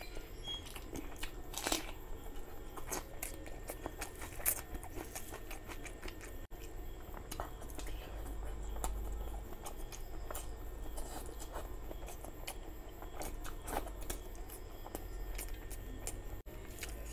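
Close-miked chewing and mouth smacking on a mouthful of curry and rice eaten by hand, with many sharp, irregular wet clicks.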